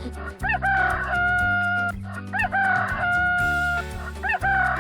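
A rooster crowing cock-a-doodle-doo three times in a row, each crow a quick rising-and-falling note followed by a long held note, over background children's music with a steady beat.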